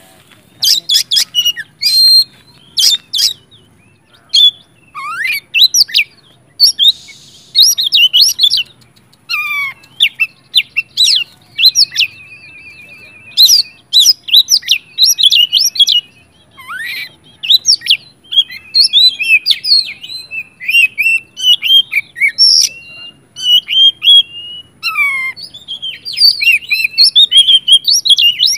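Oriental magpie-robin (kacer) in full, continuous song. It sings varied whistled phrases, quick trills and sharp notes that sweep steeply down, broken by a couple of buzzy rattling trills held for about a second.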